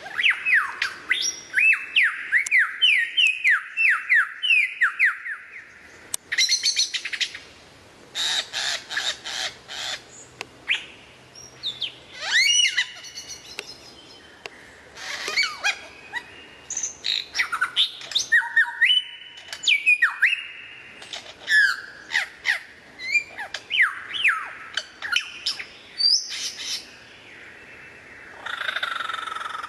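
Several different birds calling in turn. It opens with a fast series of whistled notes that each sweep down in pitch, then moves through rapid rattling runs of notes and more gliding whistles, with the character of the calls changing abruptly several times.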